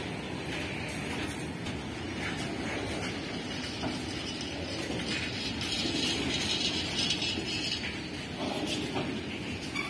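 Freight train of tank wagons rolling past close by: a steady rumble of steel wheels on the rails with scattered clicks, growing a little louder for a couple of seconds past the middle.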